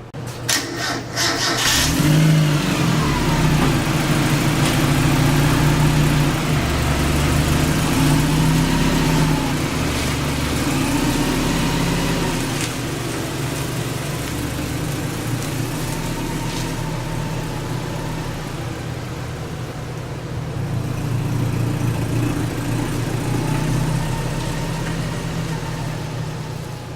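Miata kart's four-cylinder engine running through its new muffler, quieter than a straight pipe. A few sharp knocks come in the first two seconds. The engine then rises and falls in pitch as it revs, and runs steadier in the second half.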